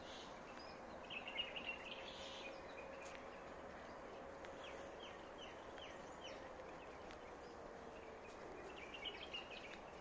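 Birds chirping over faint outdoor background noise: a cluster of chirps about a second in, a series of short falling calls in the middle, and more chirps near the end, with a faint steady hum underneath.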